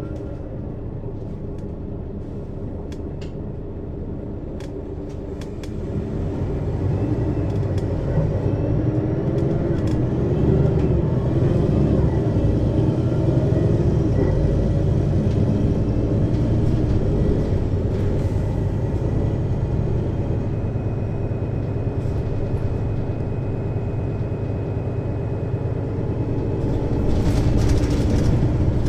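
Diesel engine of a 2003 Mercedes-Benz Citaro city bus with a ZF Ecomat 2 6HP-592 C automatic, heard from above the engine. It runs quietly at first, then pulls away about six seconds in and gets louder, its pitch rising and falling through the gear changes before running steadily under load. A short hiss comes near the end.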